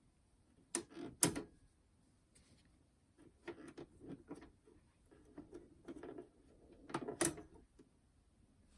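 Bent wire hook scraping and clicking against plastic inside a Pioneer SK-550 boombox as it feels for the cassette door's release switch. Two sharp clicks about a second in, a stretch of light scratching, then a louder click near the end.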